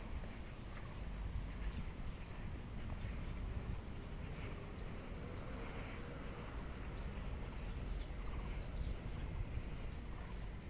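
Small birds chirping in several quick runs of short high notes from about four seconds in, over a steady low outdoor background rumble.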